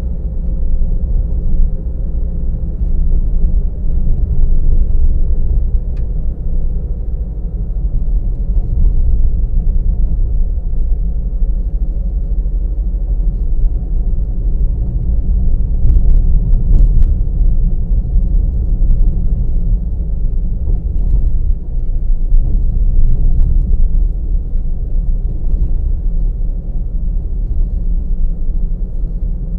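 A car driving along a road: a steady low rumble of engine and tyre noise, with a few faint clicks about halfway through.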